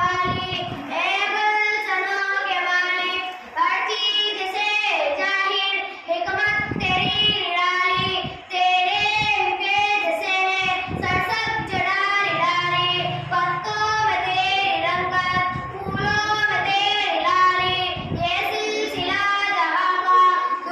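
A child singing unaccompanied in a high voice, holding and bending long notes in a religious song.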